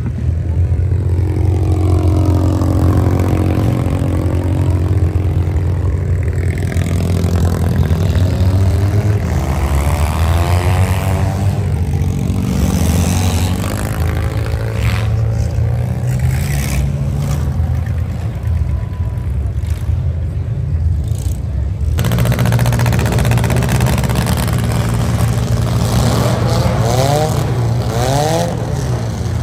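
Demolition derby minivan engines running loud, with several rising and falling revs as the cars drive.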